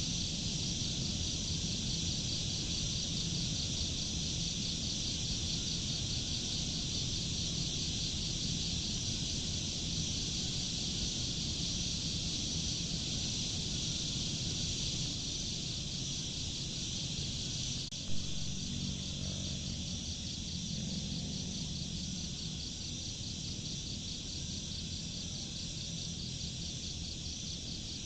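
Insects chirring in a steady, high, finely pulsing drone over a low rumble, with a single sharp click about eighteen seconds in.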